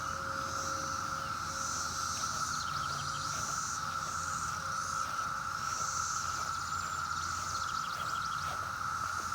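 Dense chorus of cicadas: a steady, unbroken buzzing drone, loud throughout, with fainter higher chirps coming and going over it.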